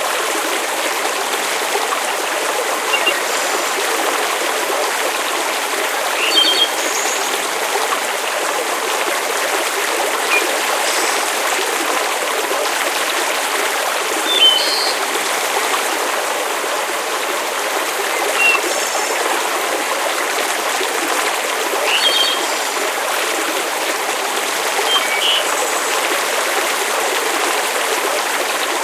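Campfire-and-rain ambience: a steady hiss of rain, with short high-pitched pops every few seconds.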